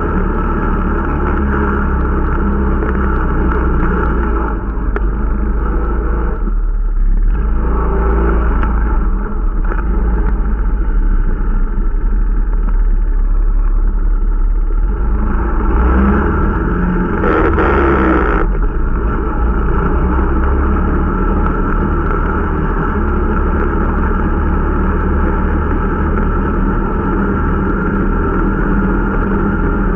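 Irbis Dingo T125 snowmobile's 125 cc engine running steadily under way while being run in, with a brief easing off about seven seconds in and a short louder rush of noise around seventeen seconds in.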